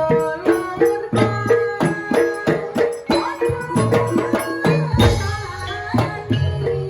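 Javanese jaranan gamelan music: tuned metal percussion striking quick, repeating notes over low drum strokes, with jingling percussion on top.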